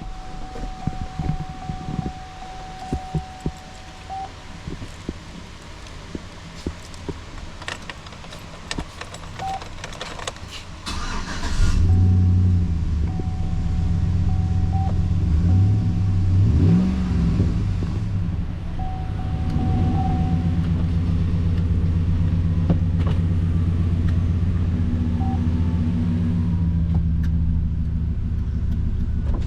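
2011 GMC Sierra 1500's 5.3-litre V8 starting about twelve seconds in, revving up briefly once, then idling steadily. Before it starts there are scattered clicks and a steady chime tone, which carries on under the engine.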